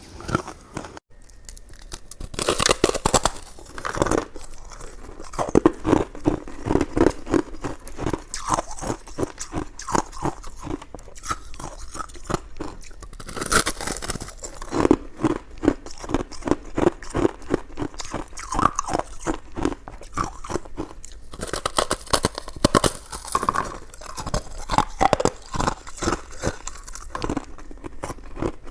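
Close-miked eating sounds: a person biting and chewing chewy coconut sticky rice cake, with dense wet mouth clicks. The chewing starts about two and a half seconds in after a brief lull.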